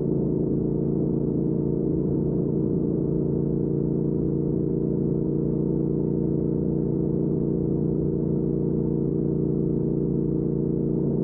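2019 Triumph Speed Twin's 1200 cc parallel-twin engine running through a Weslake Shorty Pro aftermarket exhaust, holding one steady note at constant speed with no revving or gear changes.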